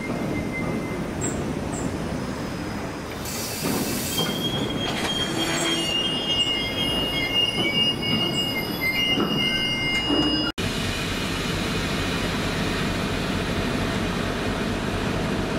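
Passing train with its wheels squealing in thin, high, wavering tones over the rumble of the train running by. The squeal cuts off abruptly about two-thirds through, and steady rail running noise follows.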